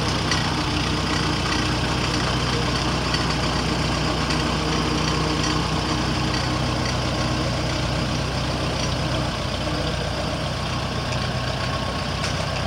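Restored 1951 Farmall tractor engine running steadily.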